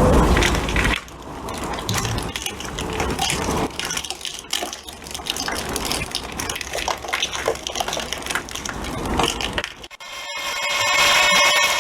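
Crunching and crackling: many small irregular snaps, as of something brittle being crushed. Near the end it cuts to a steady, machine-like hum.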